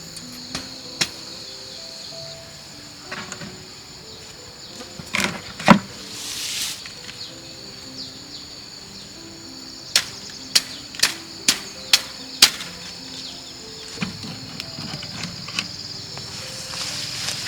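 Shrill insect buzzing over soft background music, broken by sharp knocks: a couple early, a loud pair about five to six seconds in, then a quick run of six knocks about half a second apart.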